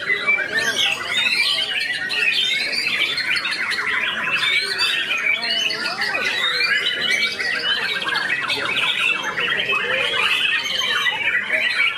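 White-rumped shama (murai batu) singing a fast, varied, continuous song of whistles, trills and harsh notes, with other caged songbirds singing at the same time.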